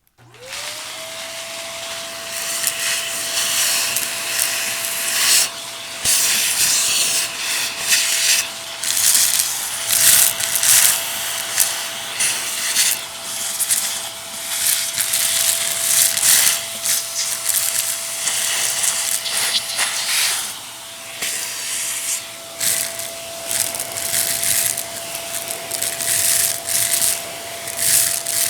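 Vacuum cleaner switched on, its motor spinning up to a steady whine within half a second and then running on, while hard debris rattles and crunches through it in irregular bursts.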